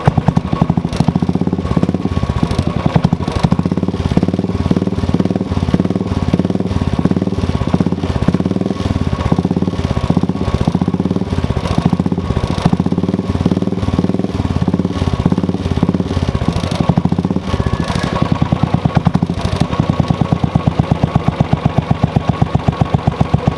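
Royal Enfield Bullet's single-cylinder engine running with a steady, rapid beat, in gear with the freshly cleaned drive chain turning. About 18 seconds in the beat changes and becomes more even.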